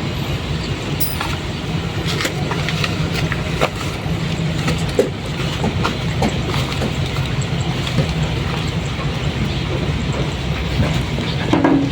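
Isuzu dump truck's diesel engine running steadily, with scattered clicks and rattles over the low hum.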